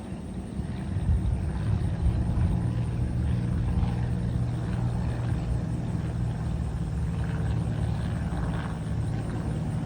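Aircraft engines passing overhead: a steady low rumble that swells about a second in and then holds.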